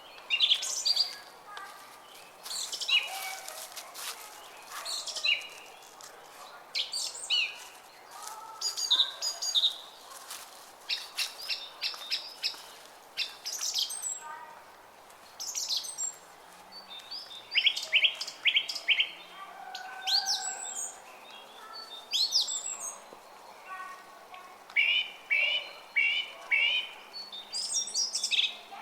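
Songbirds chirping and singing, many short rapid calls and trills from several birds, over the faint steady rush of a running brook.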